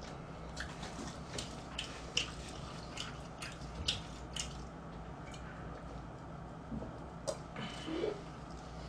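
Faint, irregular clicks and crunches of someone chewing crispy fried chicken, then a brief drinking sound from a plastic soda bottle near the end.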